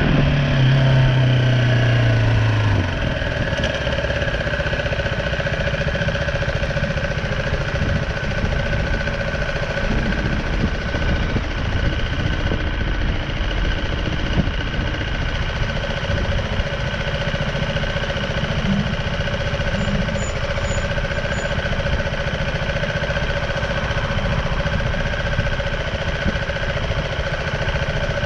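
BMW G310R motorcycle's single-cylinder engine running steadily, its note dropping a little in the first few seconds, with constant wind and road rumble at the action camera.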